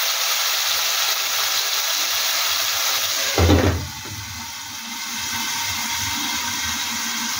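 Tomatoes, onions and green pepper sizzling steadily in hot oil in a frying pan. About three and a half seconds in, a glass pan lid is set down on the pan with a clank. The sizzle then goes on quieter and muffled under the lid.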